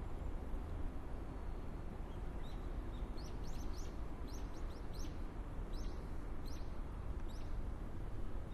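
A small wild bird giving a run of about ten short, high, quick chirps, starting a couple of seconds in and stopping near the end, over a steady low outdoor rumble.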